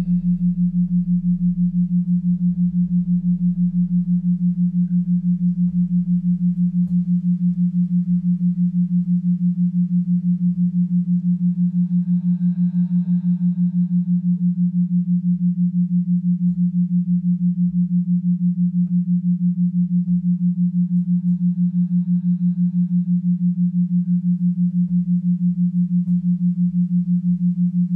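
A steady low pure tone, like a sine-wave drone, throbbing evenly about three times a second.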